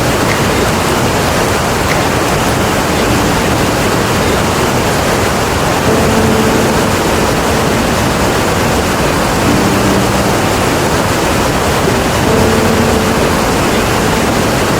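Iguazu Falls: the steady, loud rush of a huge waterfall, a dense even wash of falling water with no breaks. A few faint low tones sound briefly now and then under it.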